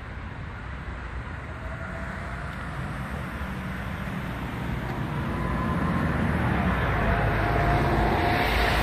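A motor vehicle approaching on a nearby road, its engine and tyre noise growing steadily louder.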